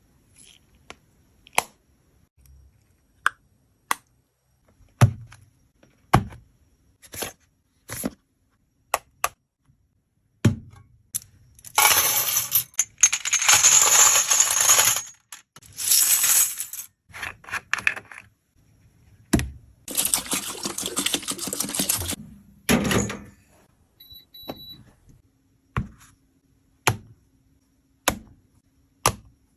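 Makeup compacts and tools being handled: a string of sharp clicks and taps, broken by three stretches of scratchy scraping, each one to three seconds long, about a third of the way in, around the middle, and a little later.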